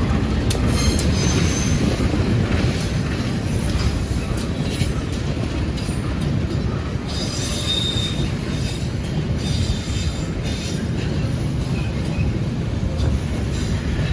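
Train running past at close range: a steady, loud rumble of wheels on the rails, with short high-pitched squeals and scrapes from the wheels on and off, one clearer squeal about eight seconds in.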